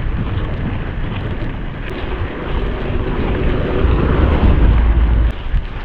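Wind rushing over the microphone of a camera carried on a moving mountain bike, with a heavy low rumble from the ride; the rumble is heaviest about four to five seconds in and drops off just after.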